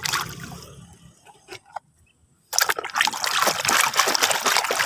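Water splashing and sloshing as muddy toy cars are washed in clean water, starting abruptly about halfway through after a brief silence, with a couple of small clicks just before.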